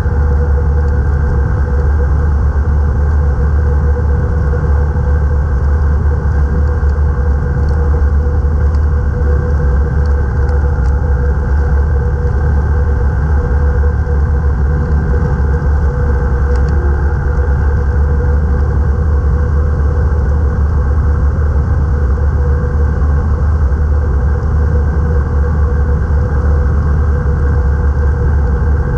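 Rotax 912S flat-four engine of a Best Off Nynja microlight running steadily in flight: a loud, unchanging drone with a deep low rumble and a steady hum above it.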